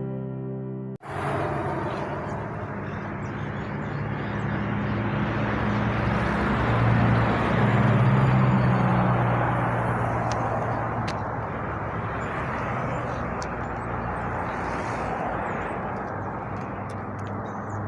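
A vehicle engine running steadily under a broad rush of noise. It starts about a second in, grows louder around the middle, then eases a little.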